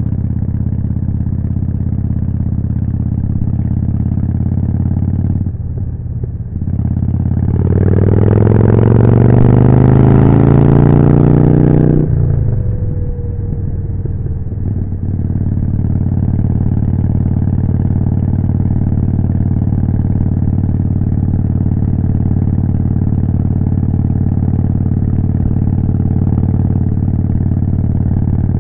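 Harley-Davidson Forty-Eight's V-twin engine through a Jekill & Hyde exhaust, running steadily under way. About six seconds in the sound dips briefly, then the engine revs up with rising pitch as the bike accelerates hard, cuts off suddenly just before halfway, and settles back into a steady cruise.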